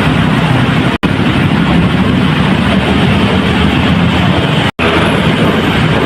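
Loud, steady street traffic noise with no distinct events, broken by two sudden brief dropouts to silence, about a second in and near the end.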